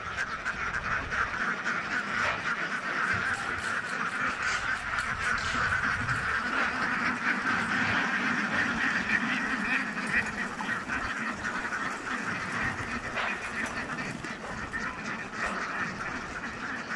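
A large flock of ducks quacking, many calls overlapping into a continuous din.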